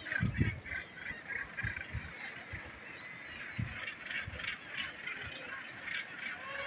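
Seabird colony calling: a dense chorus of short, harsh, overlapping calls. There are a few low thumps near the start.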